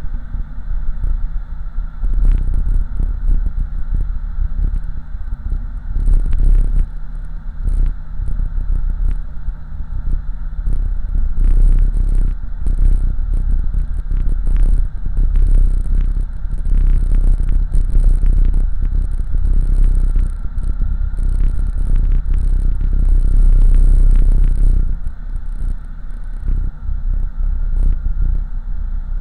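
LS-swapped 1987 Oldsmobile Cutlass's 5.3-litre V8 running under way, a deep low rumble with road noise, heard from inside the car. It gets louder about two seconds in and eases off near the end, with frequent clattering knocks over the top.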